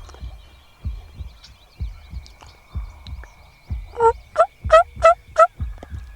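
A wild turkey gobbles once about two-thirds of the way in: a fast rattling run of about five notes. Under it a heartbeat sound effect thumps in steady double beats about once a second.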